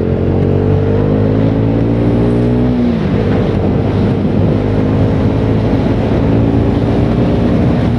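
KTM RC 390's single-cylinder engine accelerating hard under full throttle, its pitch climbing steadily. About three seconds in it drops suddenly for an upshift, then climbs again in the next gear.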